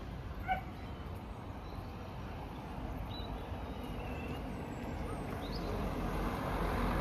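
Outdoor street noise with a vehicle going by, the rumble swelling near the end, and a few short high chirps or calls.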